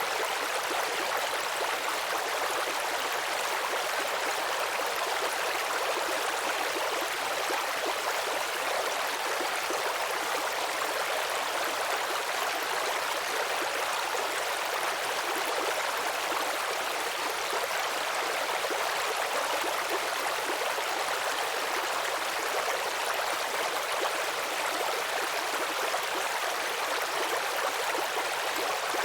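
Babbling brook: shallow stream water running and trickling steadily over stones, an even rushing with no pauses.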